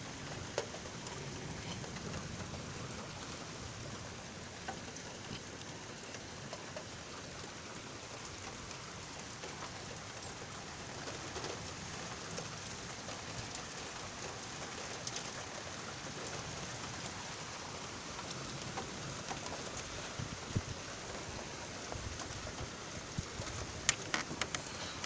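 Steady rain falling at the start of a thunderstorm's downpour, a continuous hiss with scattered sharper drop ticks and a short cluster of them near the end.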